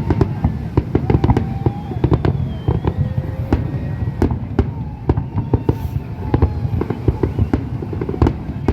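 Fireworks display: a dense, continuous barrage of sharp bangs and crackles over a heavy low rumble.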